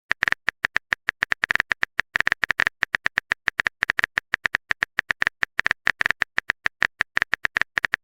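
Typing sound effect for on-screen text: a fast, uneven run of short clicks, about eight a second, all at the same high pitch.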